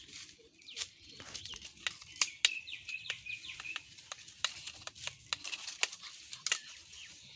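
Birds chirping in short, high calls, mixed with many sharp clicks and snaps; the chirps are densest in the middle.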